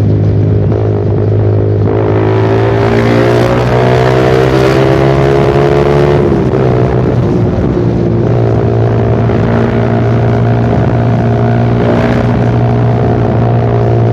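Suzuki Satria FU Fi motorcycle's 150 cc single-cylinder engine running through a short aftermarket Pro Liner muffler with its dB killer removed, while riding. The revs climb for a few seconds, drop sharply about six seconds in, then hold steady.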